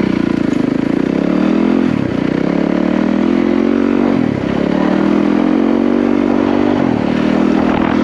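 Yamaha WR450F single-cylinder four-stroke dirt bike engine running under way, pulling up from low revs; its pitch drops briefly three times, about two, four and seven seconds in, then climbs again, as with gear changes or throttle lifts.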